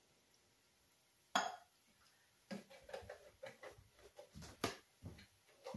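A sharp clink of metal on the skillet, then a run of small irregular knocks and scrapes as a spoon works the milk into the cream sauce in the pan.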